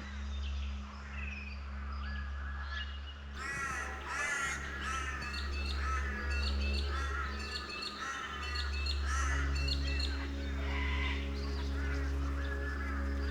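Many birds calling over each other in a dense, repeated chorus of short harsh calls, over a steady low hum.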